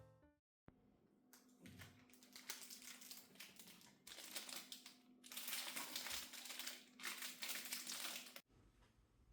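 Quiet crinkling and rustling of something crinkly being handled, in several bursts over about eight seconds, with a faint steady hum underneath.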